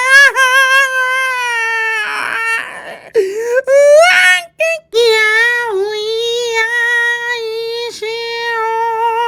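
A young child's high-pitched voice wailing in long drawn-out notes that waver in pitch, with a short breathy break and a rising glide around the middle.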